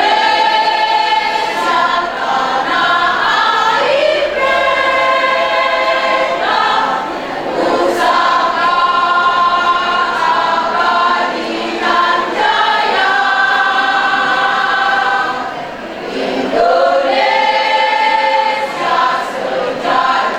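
A choir singing in long, held phrases, with short breaks between phrases about 4, 7, 12 and 16 seconds in.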